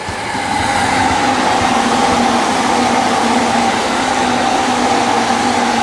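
E261 series Saphir Odoriba electric express train passing at speed. A loud, steady rush of wheel and running noise builds over the first second, with a steady whine held under it.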